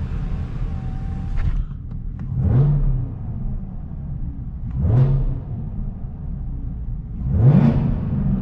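Chevrolet Camaro ZL1's supercharged 6.2-litre V8 idling and revved three times, about two and a half seconds apart, each rev climbing and dropping back to idle, the third the highest and loudest. The exhaust echoes off the concrete of a parking garage.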